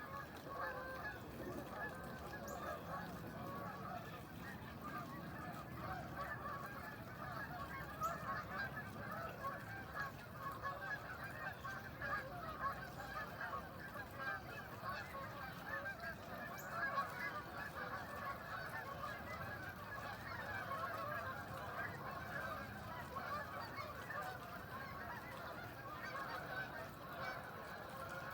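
A large flock of birds calling over one another in a dense, unbroken din of overlapping calls.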